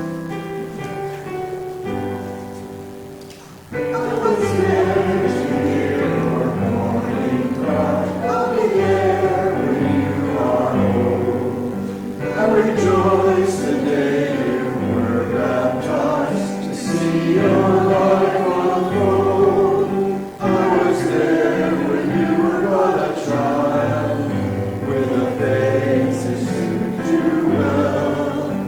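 A hymn on piano: a few seconds of introduction, then about four seconds in the congregation comes in, singing the hymn together with the piano accompanying.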